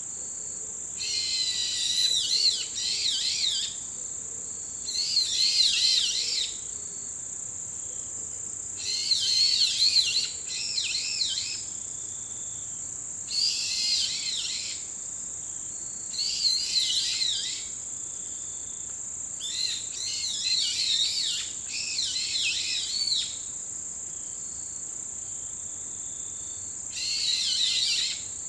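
Wild songbirds calling in short phrases of quick, rapidly rising and falling high notes, a new phrase every few seconds, over an insect's steady high-pitched trill.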